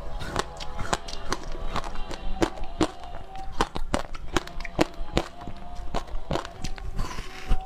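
Crunching bites and chewing of frozen food close to the microphone: an irregular run of sharp, brittle crackles, several a second.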